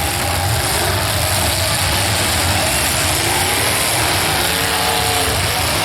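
Demolition derby car engines running, a steady loud rumble under a wash of noise.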